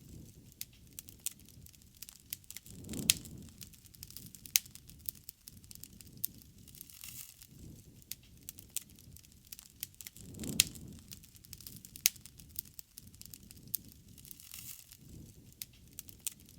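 Bonfire crackling, with sharp wood pops scattered irregularly throughout. A low rushing swell comes about three seconds in and again about ten seconds in.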